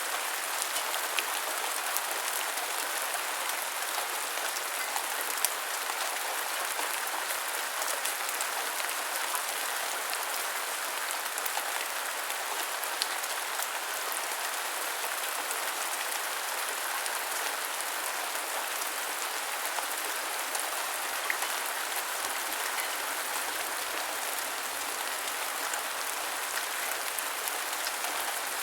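Steady heavy rain falling, with individual drops pattering on a surface.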